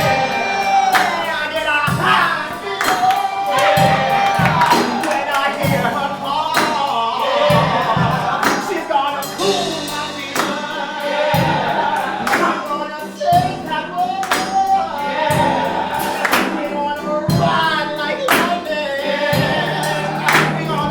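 Gospel-style musical-theatre song performed live: voices singing together as a chorus over accompaniment, driven by a steady beat of sharp percussive hits.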